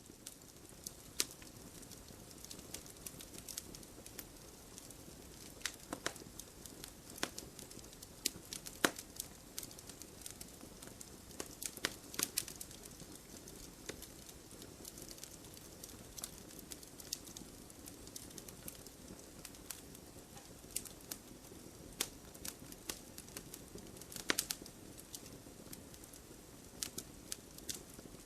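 Campfire crackling: a steady low hiss of burning with irregular sharp pops throughout, a few louder cracks standing out, one about a second in and others near nine and twelve seconds.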